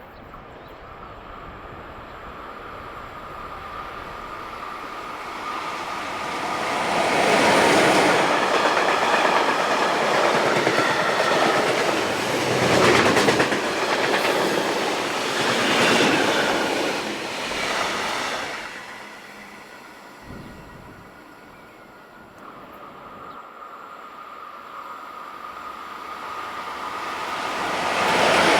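A large vehicle passing by: a rush of noise that builds over several seconds, stays loud for about ten seconds with a steady high squeal in it, and then fades away. A second one builds up near the end.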